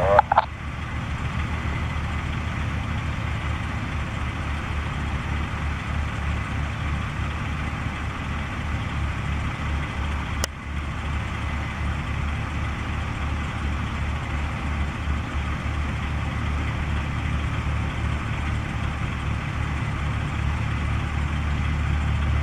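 A light aircraft's engine running steadily at low power on the ground, as for taxiing, with a fast low flutter. It grows a little louder near the end, and there is a single sharp click about ten seconds in.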